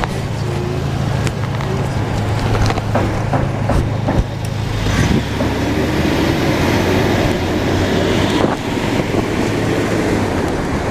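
Road traffic noise and a steady low rumble heard from a GoPro mounted on a moving bicycle, with a few scattered clicks and knocks.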